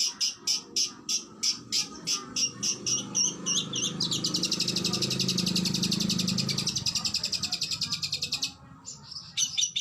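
Oriental magpie-robin (kacer) singing: sharp high notes repeated about four times a second, breaking about four seconds in into a fast, dense trill that lasts about four seconds. After a short pause, the repeated notes start again near the end.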